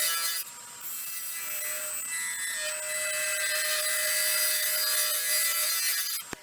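A tool cutting a resin-and-pecan-shell bowl blank spinning on a wood lathe: a steady scraping hiss over the lathe's steady tones. It drops off briefly about half a second in, then carries on until it breaks off abruptly near the end.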